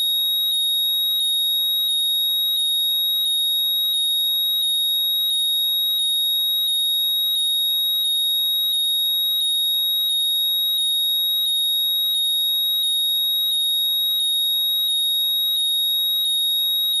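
Apple AirPods Find My locating sound playing loudly: a high-pitched steady tone overlaid with a repeating chirp pattern about twice a second.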